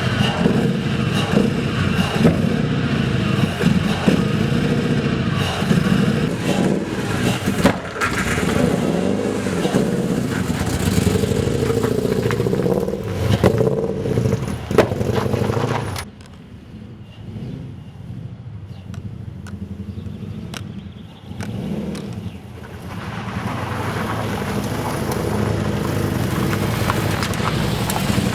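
Toyota 1UZ-FE V8 engine in a UZS13 car running and being revved as the car moves, its engine management not yet mapped. Its pitch rises and falls through the first half, the sound drops abruptly to a low, quieter running about halfway through, then builds up again toward the end.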